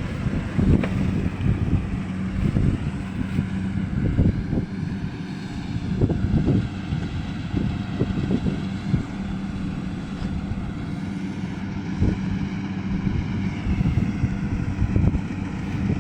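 An engine running steadily at an even speed, with irregular low thumps and knocks and wind buffeting the microphone.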